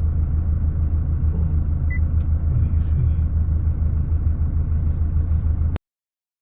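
Steady low rumble of a moving car, cutting off suddenly about a second before the end.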